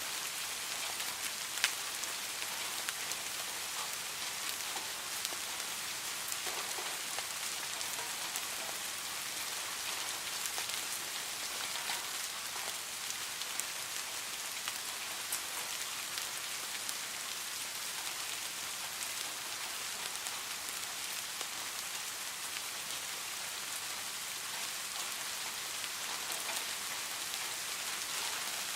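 Steady rain, an even hiss of falling drops with scattered sharper ticks. The sharpest comes about a second and a half in.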